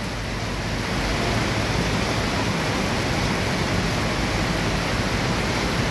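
Heavy rain pouring down: a steady, even hiss that doesn't let up.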